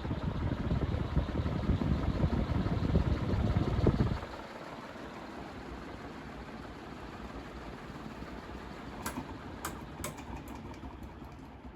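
A 1984 Aircool (Shi-Chen) 36-inch industrial ceiling fan running. A loud, fluttering low rumble heard up close cuts off suddenly about four seconds in. After that the fan runs on at a quieter steady level, with a few sharp clicks near the end.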